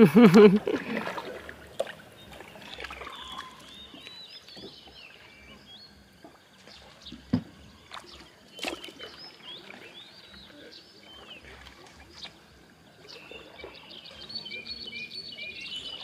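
Small birds chirping and twittering, the calls growing denser near the end, with a few knocks and splashes from a plastic kayak and its paddle.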